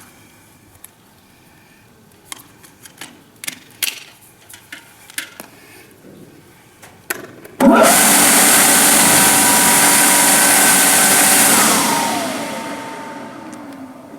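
Vikhr-2000 grain-heap aeration fan driven by a three-phase electric motor, switched on briefly through a magnetic starter: after a few clicks it starts abruptly, about seven seconds in, with a loud rush of air and a steady whine. It runs for about four seconds, then is switched off and winds down, its pitch falling as it coasts to a stop; a short run to check the direction of rotation.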